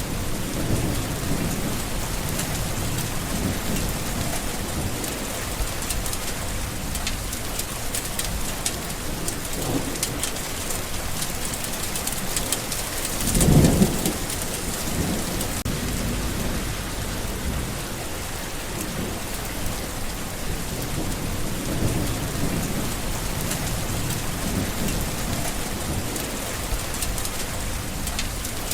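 Steady rain falling, with low rolls of thunder and one louder thunderclap about halfway through.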